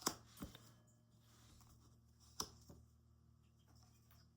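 Near silence: a low steady room hum with a few faint, short clicks or taps, one pair coming about two and a half seconds in.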